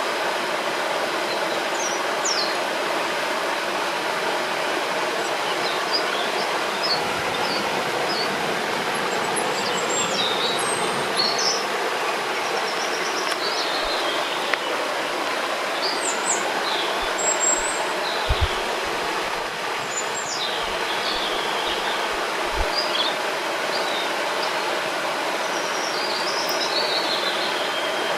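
Steady rush of a flowing river or stream, with small birds chirping and singing in short calls over it throughout.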